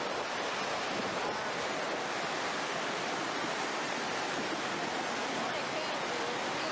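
Fast-flowing floodwater rushing, a steady unbroken noise.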